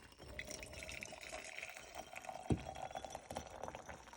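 Faint trickle of liquid with scattered small clicks, and one sharper knock about two and a half seconds in.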